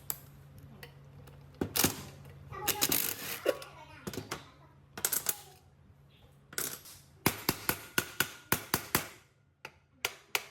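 Metal parts clinking and knocking against each other, then a quick run of light, even taps, about four a second, in the second half. A low steady hum stops about four seconds in.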